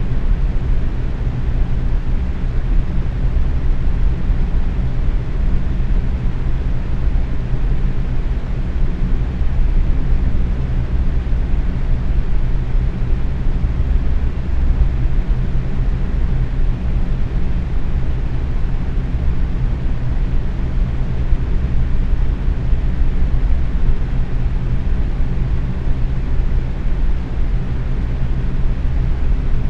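Box fan running steadily at medium speed: a constant low whooshing rush of moving air with a faint motor hum.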